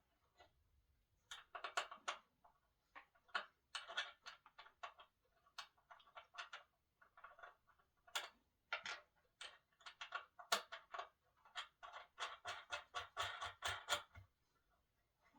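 Quiet, irregular bursts of small clicks and rattles from table parts, hardware and tools being handled while a solid-wood dining table is put together. There is a quick run of evenly spaced clicks about two-thirds of the way in.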